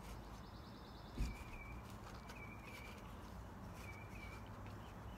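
Faint birdsong: a short buzzy trill in the first second, then a repeated two-note chirp every second or so. A single low thump about a second in is the loudest sound.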